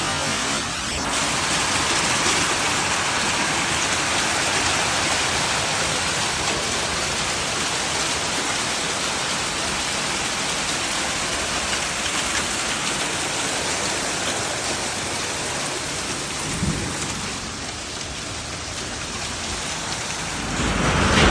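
Heavy rain and hail falling hard, a steady dense hiss of drops striking surfaces. There is a brief low thump about three-quarters of the way through, and the downpour grows louder just before the end.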